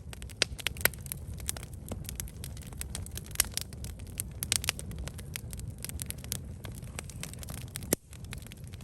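Wood campfire crackling and popping, with many irregular sharp snaps over a steady low rumble; one sharp crack near the end is followed by a brief dip.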